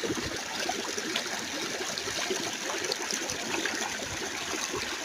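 A stream running steadily, its water babbling without a break.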